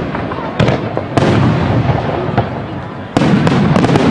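Aerial fireworks going off in quick succession: a dense run of booms and crackling bursts, with a loud bang about a second in and another near the end.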